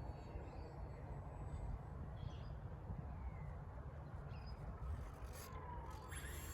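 Wind rumbling on the microphone, with a few faint high chirps. Near the end a faint whine falls in pitch, then rises sharply.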